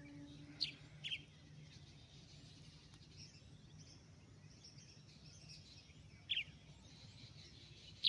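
Birds chirping: short, sharp downward chirps about half a second in, about a second in and near six seconds, with fainter high twittering between them, over a faint low steady hum.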